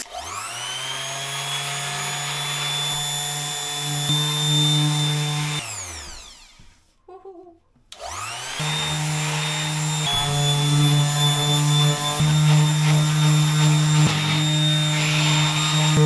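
Electric sander starting up and running against dried filler on wood. About six seconds in it winds down and stops for a moment, then starts up again and runs steadily.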